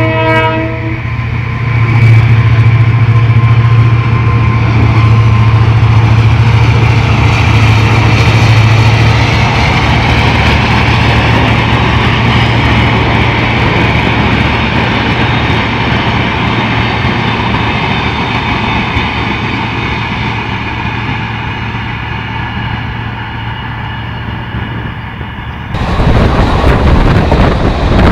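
Electric trains (a Shatabdi Express and an EMU local) running past side by side: a train horn ends in the first second, then a steady rumble with a strong low hum swells and slowly fades. About 26 s in, the sound changes abruptly to loud wind buffeting and rail noise from the open door of a moving train.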